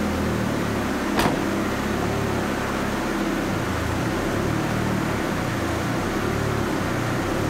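Turbocharged 1.8T four-cylinder engine running steadily on a chassis dyno, with one sharp click about a second in.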